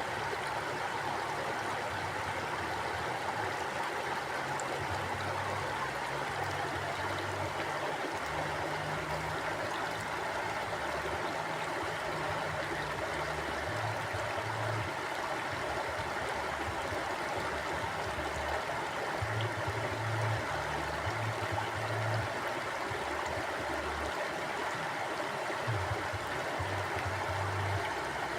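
Mountain stream flowing steadily, an even rush of water with a low rumble underneath that comes and goes.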